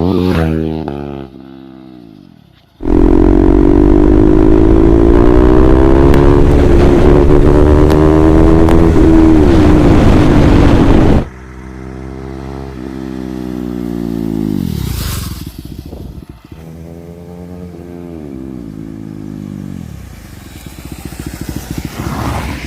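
KTM Duke 390's single-cylinder engine breathing through an aftermarket SC Project-style exhaust while being ridden. It revs down at first, then runs very loud for several seconds with the pitch slowly climbing over a deep rumble, and the sound drops off suddenly. After that the revs fall and rise again a few times.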